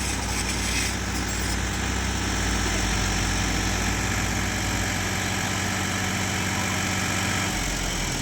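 Tractor's diesel engine running steadily, its low note shifting near the end.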